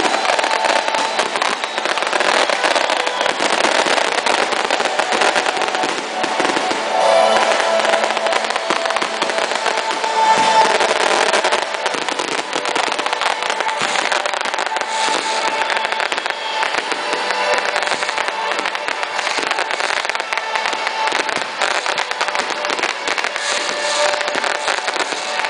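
Fireworks crackling in a dense, continuous barrage of rapid small pops.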